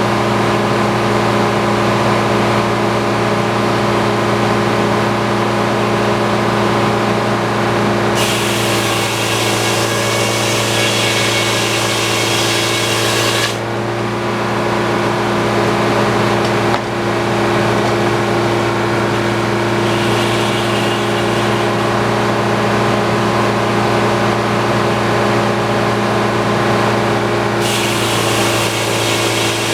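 Antique circular sawmill running steadily, with the blade cutting through a log in stretches. A higher hiss from the cut comes in a quarter of the way in and stops near the middle. It returns, fainter, about two-thirds of the way in and louder again near the end.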